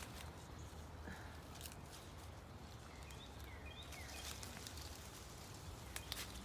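Faint ambience with a bird chirping softly, short falling notes every second or so, over a low steady hum, and a couple of sharp handling clicks near the end.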